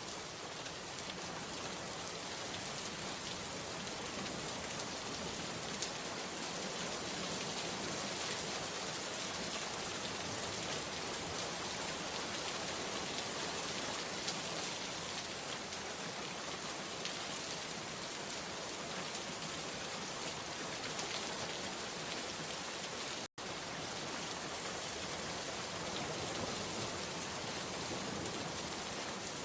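Steady rain falling, with scattered single drops ticking through it. The sound cuts out for an instant about two-thirds of the way through.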